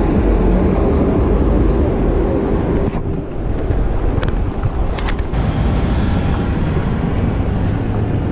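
Wind rumbling on the microphone of an e-bike rider moving through traffic, with passing vehicle noise underneath. A few short clicks about four to five seconds in.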